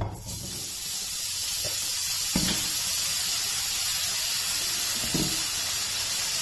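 Diced raw potatoes hitting hot oil with tempered cumin, mustard seeds and curry leaves in a frying pan: a loud sizzle starts suddenly and holds steady.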